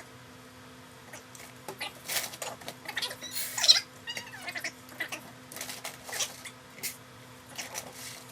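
2-row barley malt being scooped from a sack and poured onto a scale, in a string of short, uneven rustling bursts. The loudest burst, about three and a half seconds in, carries a brief high, wavering sound.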